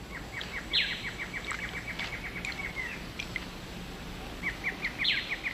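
Rainforest ambience with an animal calling: a rapid trill of short, even chirps, about eight a second, lasting two to three seconds. A brief rasp comes early in the trill, and the trill starts again about four seconds in.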